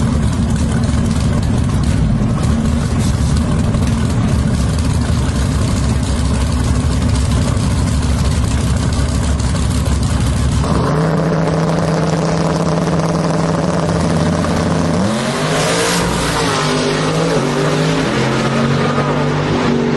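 Drag-race vehicle engines idling with a low rumble; about eleven seconds in the sound changes to a steadier engine note, and a few seconds later an engine is revved up and down several times.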